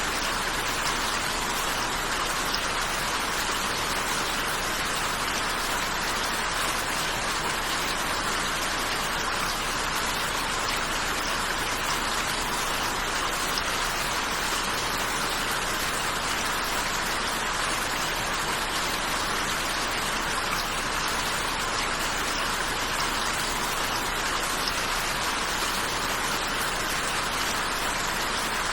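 Steady rainfall: an even, unbroken hiss of rain, without change or single distinct drops standing out.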